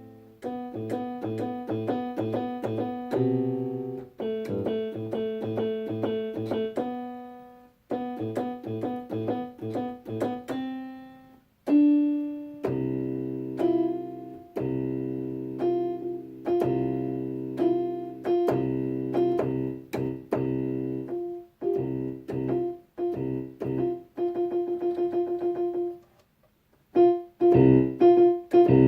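A piano keyboard played in simple repeated chords over bass notes, stopping briefly a few times and pausing for about a second near the end.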